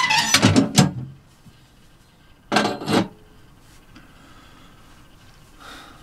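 Two short bursts of rustling and rubbing, the first right at the start and the second about two and a half seconds in, in a small wooden room.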